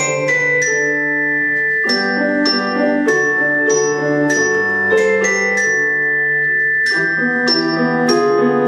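Tuned mallet percussion playing a melody of sharply struck, ringing notes over sustained lower accompaniment notes.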